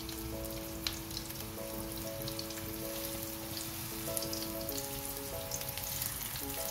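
Lemongrass stalks and ginger slices frying in oil in a pan: a steady sizzle with scattered small crackles, over soft background music.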